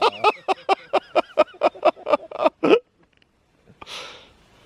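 A man laughing hard in a rapid string of pitched "ha" bursts, about four a second, breaking off a little under three seconds in; a short breathy rustle follows about a second later.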